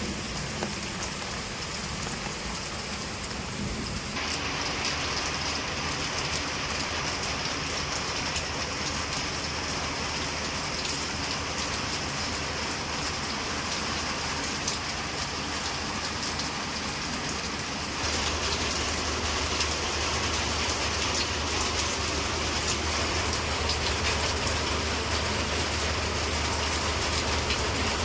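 Steady rain falling, an even hiss of many drops. It grows louder about four seconds in and again about eighteen seconds in, when a low steady hum joins it.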